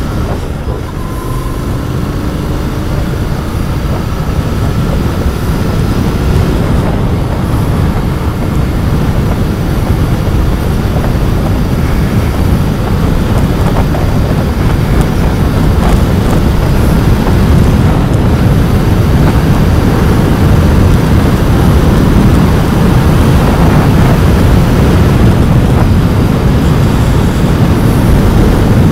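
Royal Enfield Continental GT 650's parallel-twin engine on its stock exhaust, heard while riding and pulling through the gears, with road and air rush. The sound grows steadily louder as speed builds.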